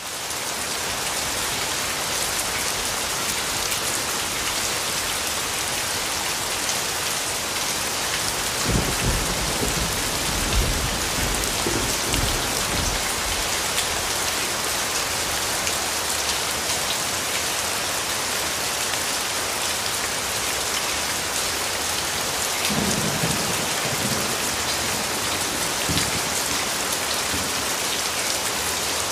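Steady rain falling in a dense, even hiss, fading in at the very start, with low rumbles of thunder rolling in about a third of the way through and again near the end.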